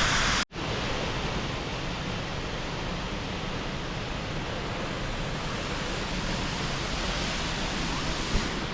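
Steady rushing of South Falls, a large waterfall. The sound cuts out for an instant about half a second in and comes back a little quieter.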